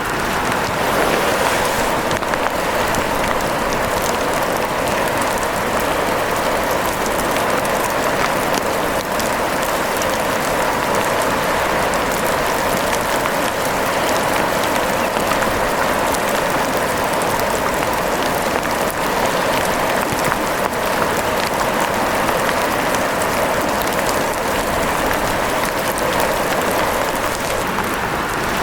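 Steady rain falling, a dense, even patter of drops at a constant level with no let-up.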